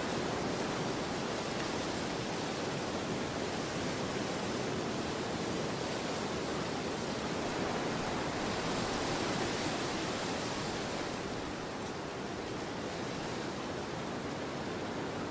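Wind of an autumn storm blowing steadily as a broad rushing noise, swelling slightly about nine seconds in and easing a little after.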